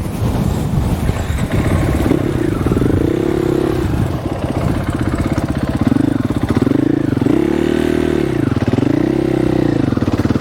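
Dirt bike engine running and being revved up and down several times, with the pitch rising and falling in repeated swells from about two seconds in.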